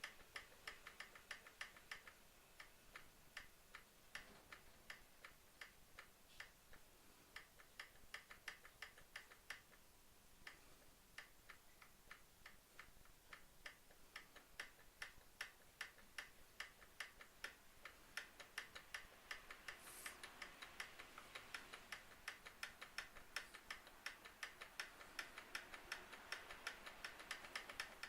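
Light, rapid mechanical ticking, about three to four sharp clicks a second, getting a little louder and denser in the last third: the abnormal ticking noise being tracked down.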